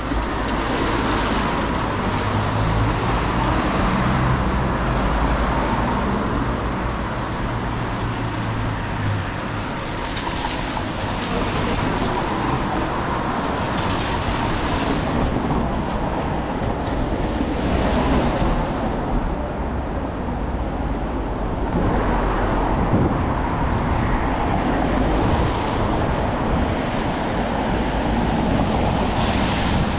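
City street traffic noise: motor vehicles passing, with one engine's low hum over about the first ten seconds.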